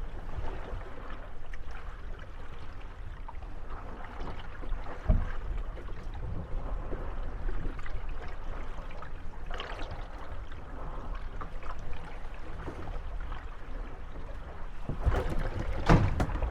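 Moored gondolas rocking on lapping water, the hulls bumping and knocking against each other. One knock comes about five seconds in, and a louder cluster of knocks near the end.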